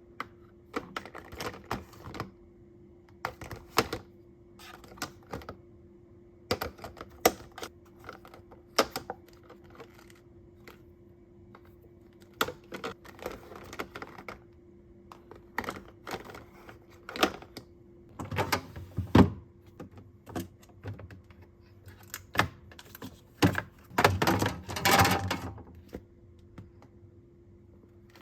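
Household items being handled: irregular clicks, taps and knocks of small hard objects, with two longer rustling, scraping stretches, one past the middle and one near the end. A faint steady hum runs underneath.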